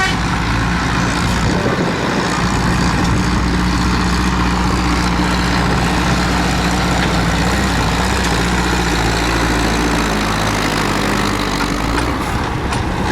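Tractor diesel engines running loud and steady, with a dense hiss of engine and exhaust noise above; the pitch holds with small shifts, and the low tone fades a little near the end.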